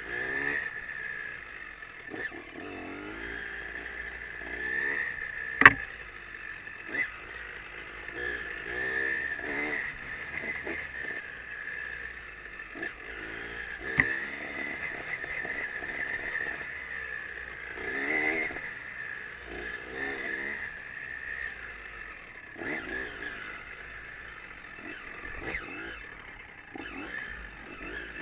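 Off-road trail motorcycle engine revving up and down over and over as it is ridden, with a sharp knock about six seconds in and a lighter one later.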